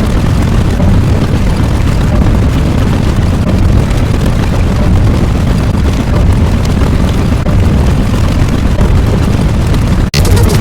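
A loud, steady low rumble. It drops out for an instant near the end, and a hissier sound follows.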